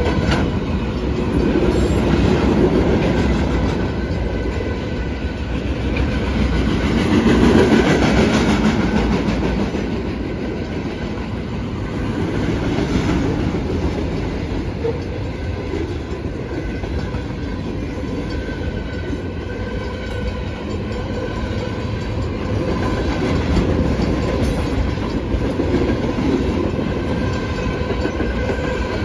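Freight train of loaded flatcars rolling steadily through a grade crossing: continuous rumble of steel wheels on rail with clickety-clack over the joints. It swells a little louder about seven or eight seconds in.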